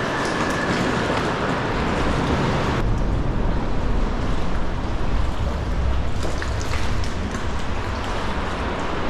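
Steady wash of sea water around a sea kayak with wind rumbling on the microphone; about three seconds in the hiss thins and the low rumble grows heavier, with a few small splashes or drips near the end.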